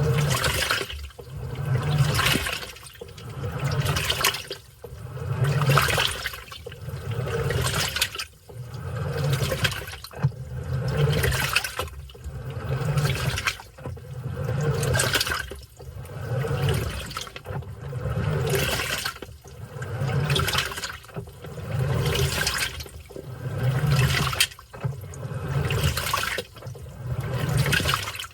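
Washing machine in its wash cycle: water and laundry sloshing in regular swishes about every two seconds, each swish with a low hum from the drive.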